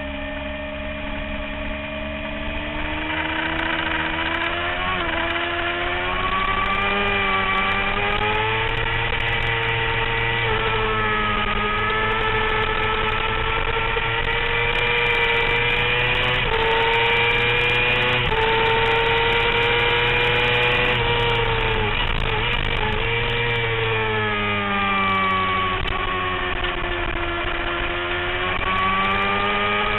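Sport motorcycle engine at speed on track, heard from on board the bike: its note climbs and falls with the revs through the gears, lower and quieter for the first few seconds, high and sustained through the middle, with a few quick drops about two-thirds through, then rising again near the end.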